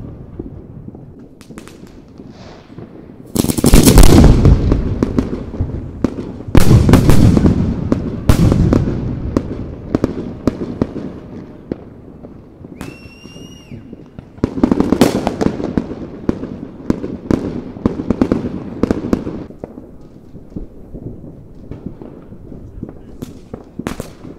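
Aerial firework shells bursting: four big booms, each trailing off into crackling and rumbling echo, with lighter crackling in between. A short steady whistle sounds about thirteen seconds in.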